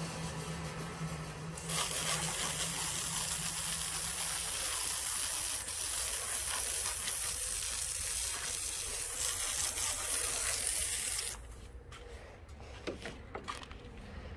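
A loud, steady spray hiss starts about two seconds in and cuts off abruptly about eleven seconds in, over the low hum of a running engine.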